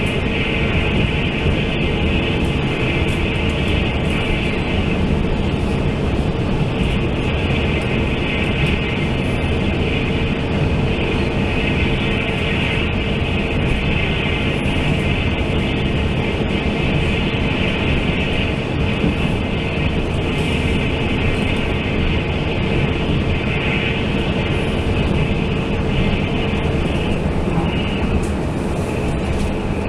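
Steady running noise inside a Taiwan Railway Fu-Hsing express passenger coach at speed: wheels rumbling on the rails, with a steady hum that stops near the end.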